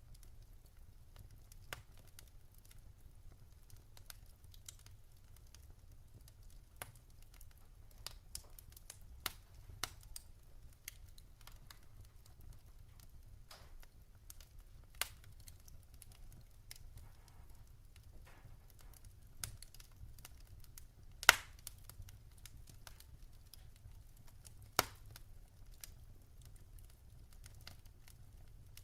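Wood fire in a fireplace crackling, with scattered sharp pops of burning logs over a faint low rumble. The loudest pop comes about two-thirds of the way through, with another a few seconds later.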